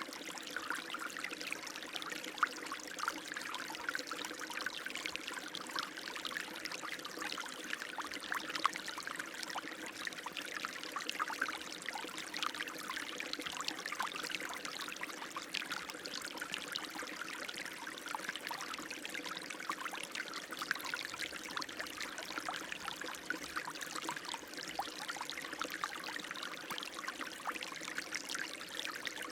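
Running water flowing steadily, a dense, unbroken patter of small splashes.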